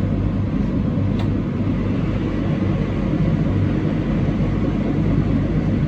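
Train running along the line, heard from inside the front car: a steady low rumble of wheels on rails with running-gear hum, and a light click about a second in.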